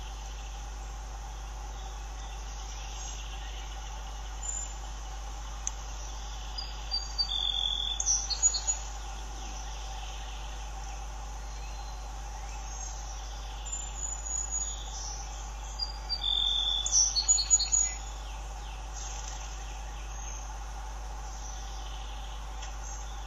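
Two bursts of rapid, chattering bird calls, about nine seconds apart, each getting louder and lasting a second or two, over a steady drone of crickets and a low electrical hum.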